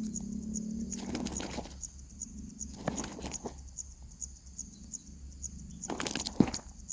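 Bursts of rustling and scratching from nestlings shuffling in their nest, the loudest near the end, over a steady faint high ticking about three times a second.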